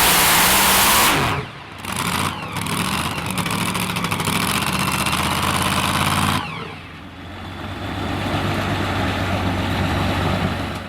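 Modified two-wheel-drive pulling truck's engine at full power with a high whine; the throttle is chopped about a second in as the pull ends. It then keeps running at lower revs, dips again about six seconds in and picks back up, and the sound cuts off abruptly at the end.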